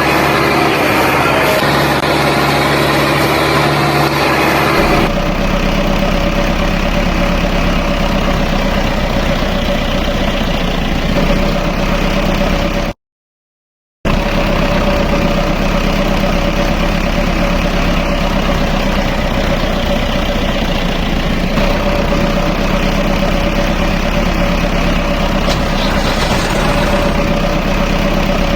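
A mini tractor's engine sound running steadily at idle. The sound changes abruptly about five seconds in, and cuts out completely for about a second around thirteen seconds in.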